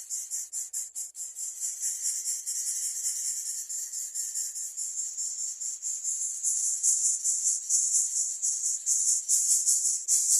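Insect trilling in a high, rapidly pulsing buzz, a few pulses a second, growing louder about two-thirds of the way through.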